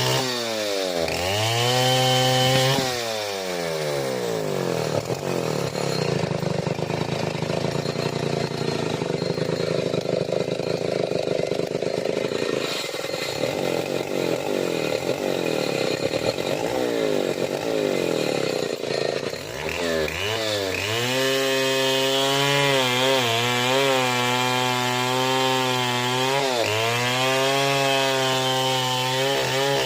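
Stihl 070 two-stroke chainsaw running hard while cutting wood. Its engine note drops and recovers as it bogs under load, holds a long steady cut in the middle, then runs at high revs with brief dips every couple of seconds.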